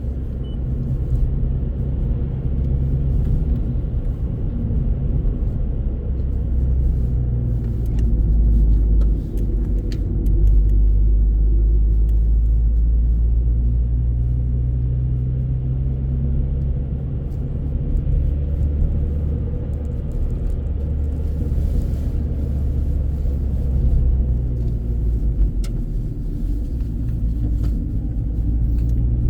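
A car driving, heard from inside the cabin: a steady low rumble of engine and road noise that swells a little around ten seconds in.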